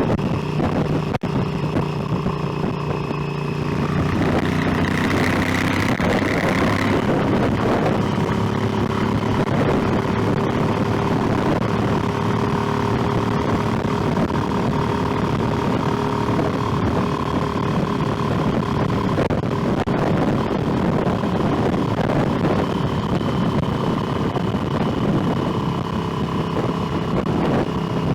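Motorcycle engine running under way with road and wind noise. It gets louder about four seconds in and then holds steady.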